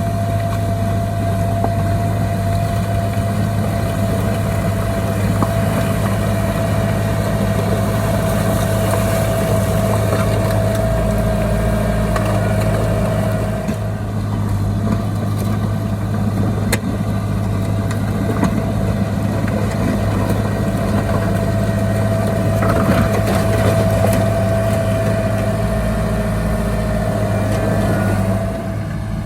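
Diesel engine of heavy earthmoving machinery running steadily under load, with a deep hum and a constant high whine.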